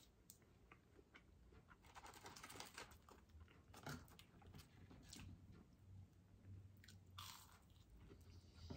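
Faint chewing of McDonald's chicken nuggets, with small scattered crunches and wet mouth and lip sounds.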